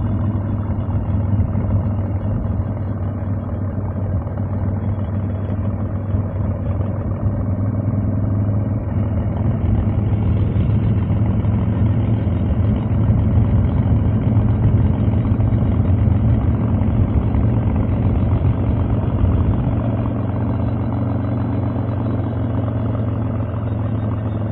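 Harley-Davidson Evolution air-cooled V-twin motorcycle engine running under way, a steady low exhaust drone. The engine note picks up around ten seconds in, is loudest through the middle, and eases off near the end.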